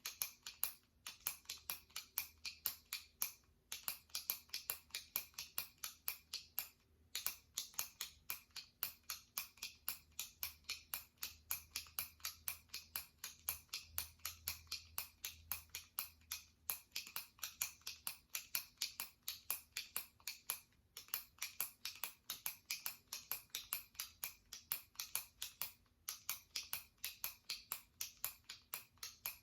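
A jumbo retractable pen clicking as its top button is pressed over and over, about three clicks a second, with a few brief pauses.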